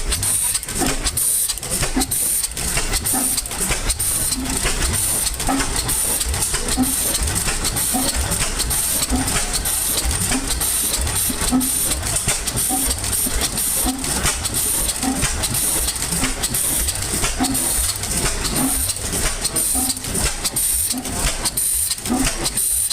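Antique Evans Manufacturing Company stationary engine running steadily after being brought back to life, with an even, repeating beat of strokes and a steady hiss.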